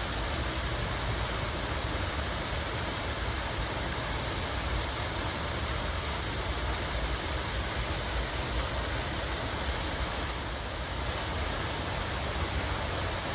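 Water running steadily in a continuous, even rush, with a low rumble underneath.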